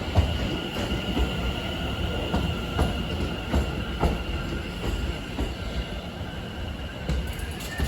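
Class 710 electric multiple unit moving at the platform: a steady high whine with irregular clicks of the wheels over rail joints.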